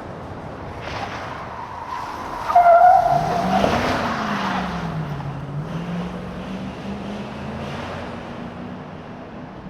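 Truck tyres squealing briefly about two and a half seconds in. This is the loudest moment. The engine note then dips and climbs again and keeps running steadily under the tyre and road noise.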